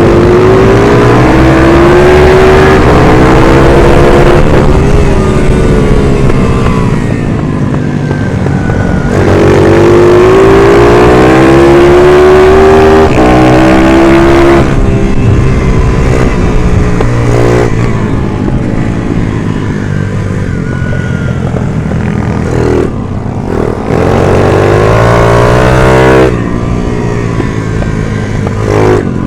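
Racing minibike's 140cc engine at full throttle: its pitch climbs in long pulls, then falls suddenly as the throttle shuts, three times over, with lower, varying engine note between.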